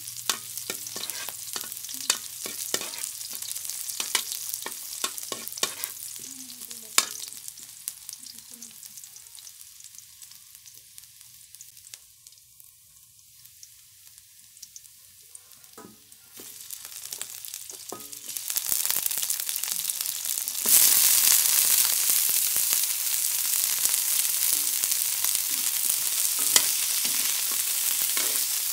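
Garlic and onion sizzling in oil in a wok, stirred with a metal spatula that clicks and scrapes against the pan. About two-thirds of the way in, raw chicken feet go into the hot oil and a much louder, denser sizzle starts, with stirring.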